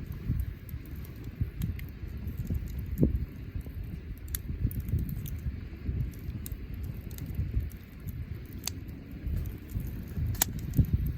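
Wood bonfire burning, a low rumble of flame with scattered sharp crackles and pops from the burning wood.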